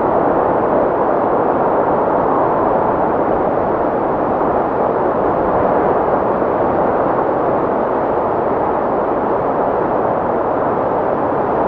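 Wind sound effect: a steady rush of wind, even in level, without whistling tones.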